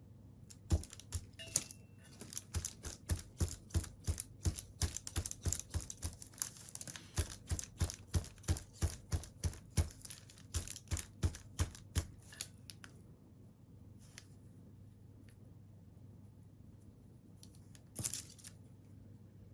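A quick run of sharp clicks or taps, about three to four a second, for some twelve seconds, then a few scattered clicks and one louder rustle near the end.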